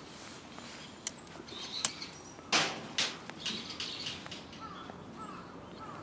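Small birds chirping with short repeated falling calls, over a few sharp clicks and two louder knocks near the middle.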